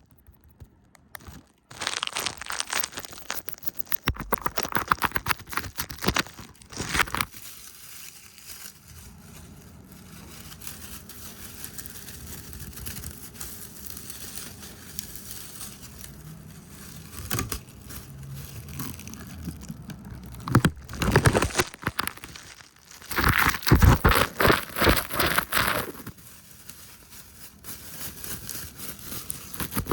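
Close-up ASMR triggers: fast, aggressive brushing and hand movements right at the microphone. They come in bursts of dense scratchy noise, with a quieter stretch in the middle and the loudest burst near the end.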